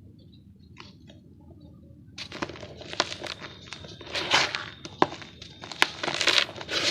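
Dry, gritty yellow dirt crunching and crackling as it is crumbled, starting about two seconds in. A few sharp cracks stand out, and the crunches grow louder near the end.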